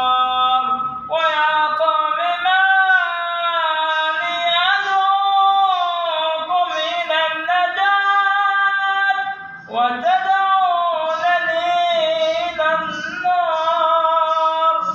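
Quranic recitation in melodic tajweed style: a single voice draws out long, ornamented notes that glide up and down, with a short break for breath a little past the middle.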